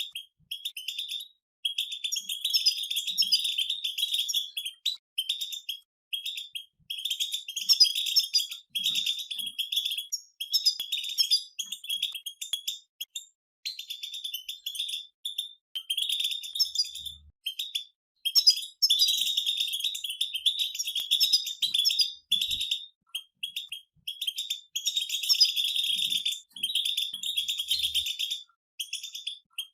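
Several European goldfinches singing together: high, rapid twittering and chattering song phrases broken by short pauses.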